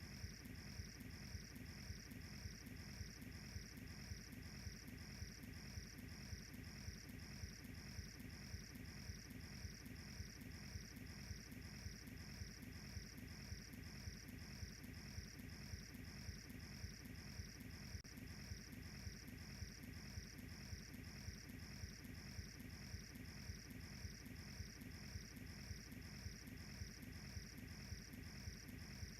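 Crickets chirping in a steady high trill that pulses evenly about twice a second, over a low, constant rumble.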